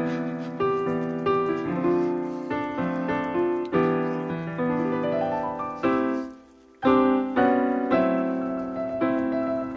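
Background piano music, a melody of struck notes over chords. It fades almost to nothing for a moment about two-thirds through, then starts again.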